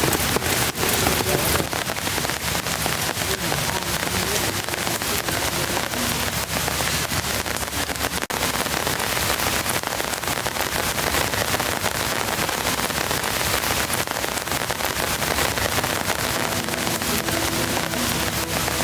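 Heavy rain pouring down, a dense patter of drops striking a surface close to the microphone.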